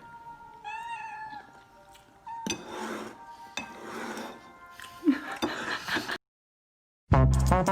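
A cat meows once about a second in: a short call that rises and falls. Scattered noisy sounds follow, then after a brief silence music with a heavy beat starts near the end.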